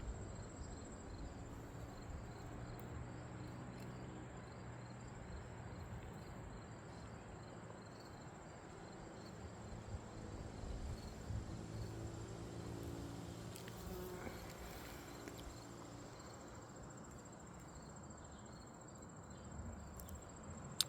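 Crickets chirping in a steady, high-pitched trill, faint, with a soft low hum swelling and fading in the middle.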